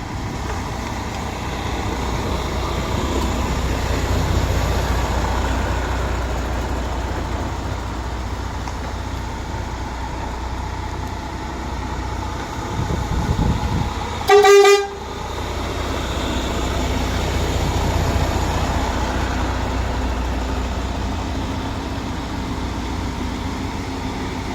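Passing trucks' engines make a steady low rumble, broken about halfway through by one short, loud horn blast.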